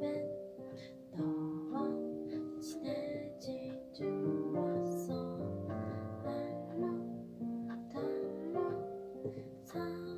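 Instrumental music: a plucked, strummed string instrument, guitar or ukulele, playing a slow melody with chords.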